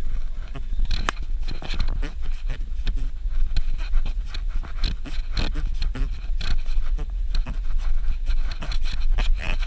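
Suzuki Jimny driving on a rough dirt road: a steady low rumble under constant irregular knocks and rattles.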